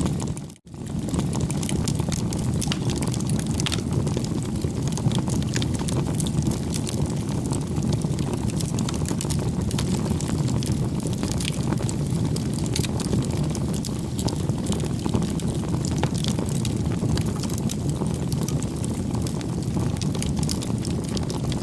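Wood fire crackling: a steady low rush with many small sharp pops and snaps. The sound drops out for a moment about half a second in.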